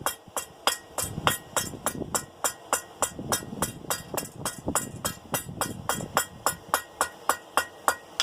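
Hand hammer striking hot 1/2-inch round steel bar on an anvil at about four blows a second, each blow with a short metallic ring, as the end of the bar is drawn out to a blunt point. The hammering stops right at the end.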